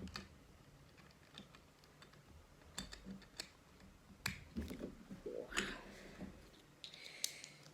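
Lego plastic parts being handled and fitted together: a handful of scattered sharp clicks with light plastic rattling between them.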